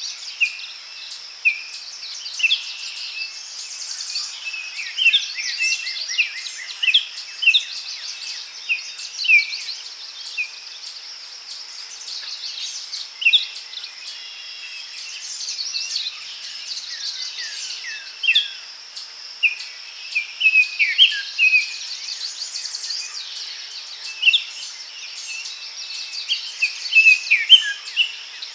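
Daytime forest ambience: many small birds chirping in short, quick calls that slide up or down, over a steady high insect drone with an even ticking of about two beats a second.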